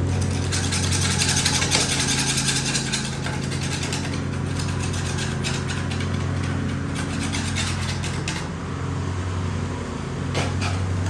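A steady low mechanical hum, with irregular scraping and rasping over it for most of the first eight seconds and a few sharp clicks near the end.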